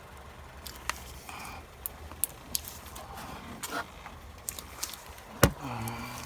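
Scattered light metallic clicks and clinks of hand tools and parts being handled, with one sharp, loud knock about five and a half seconds in.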